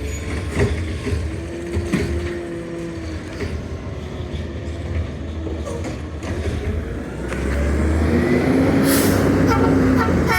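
McNeillus Zero Radius side-loader garbage truck running, with scattered knocks from its working parts. Its diesel engine grows louder from about seven seconds in, and a short hiss comes about nine seconds in.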